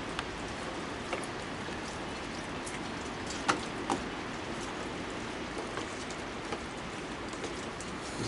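Heavy rain falling steadily, with scattered sharp ticks of drops and two louder clicks about three and a half seconds in.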